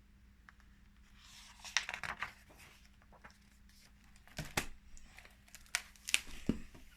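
Handling noises: soft rustling with several sharp knocks and clicks, the loudest a little past the middle and near the end.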